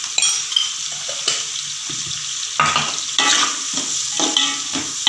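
Diced onions sizzling in hot oil in a wide aluminium pan over a medium flame, frying on their way to light brown. A steel spoon stirs them, clinking and scraping against the pan now and then, most busily in the second half.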